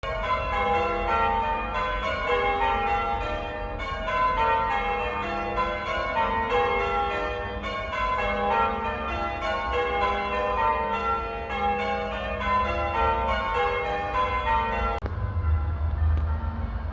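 The front six church bells being change-rung, with the tower's new sound control open: a steady, even stream of bright, ringing strikes. About 15 seconds in the sound control is closed and the bells go on more muffled, their high overtones cut, with a low rumble underneath.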